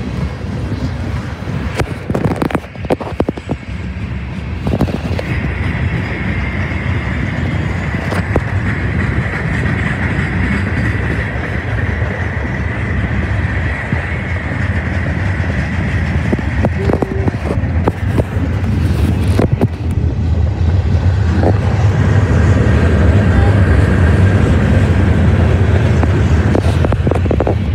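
Freight cars of a mixed freight train rolling past close by: a steady rumble of steel wheels on rail with irregular clicks and clanks, and a high steady squeal for about ten seconds in the middle.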